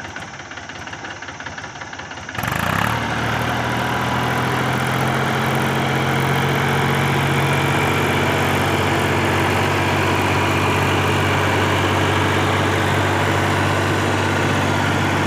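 Mahindra tractor's diesel engine running steadily, stepping up abruptly in loudness about two seconds in and then holding an even note.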